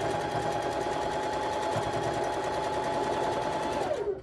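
Electric sewing machine running steadily with a high whine while stitching a seam. Near the end the motor winds down with a falling pitch and stops.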